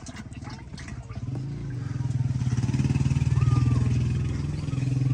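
Diesel engine picking up about a second in and then running with a fast, even firing beat, growing louder, with a brief dip near the end before it picks up again.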